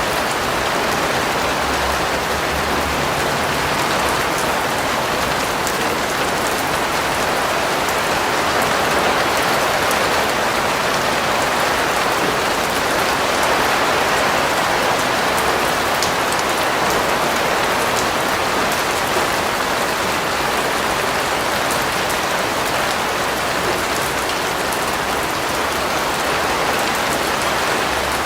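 Steady rain falling on a surface, an even hiss with fine patter of individual drops and no thunder.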